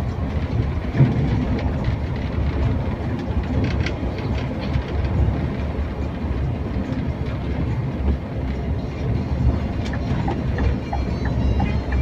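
Scania K410iB coach on the move: a steady low rumble of road and drivetrain noise, with scattered rattles and clicks.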